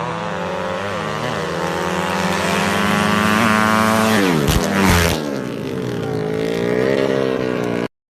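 200cc engine running, its pitch climbing slowly. About four seconds in the pitch drops sharply, with two short sharp noises, then rises again in a curve. The sound cuts off abruptly near the end.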